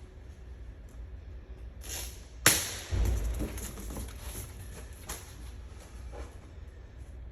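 Gear being handled and shifted, with soft rustles and scrapes and one sharp knock about two and a half seconds in, followed by a brief dull thud.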